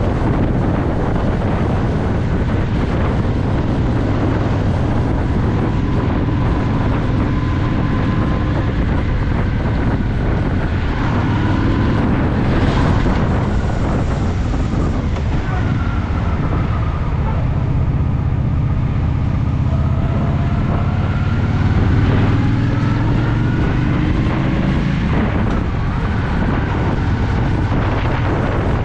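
Honda Shadow VT750's V-twin engine running under way, its revs rising and falling as the bike rides through traffic, with wind buffeting the microphone.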